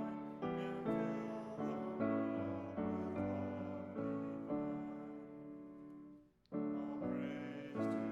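Piano playing slow hymn chords, each struck and left to ring. The playing breaks off briefly about six and a half seconds in, then starts again.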